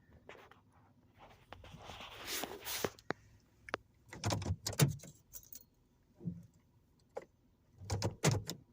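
Irregular clinks, rattles and knocks inside a car, with a short rush of noise about two seconds in.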